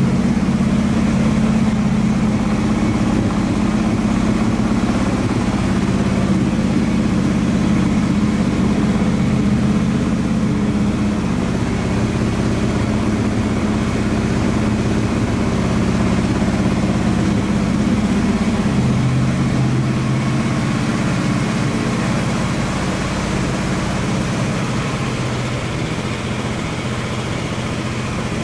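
1969 AMC Javelin's carbureted 290 V8 idling steadily.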